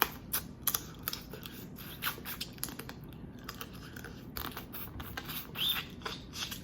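Boiled crawfish being cracked, peeled and chewed close to the microphone: a string of small, sharp shell cracks and clicks.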